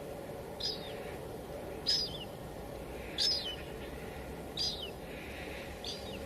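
Steady light drizzle, with a bird calling over it: five short, high calls that each drop in pitch at the end, about one every second and a half.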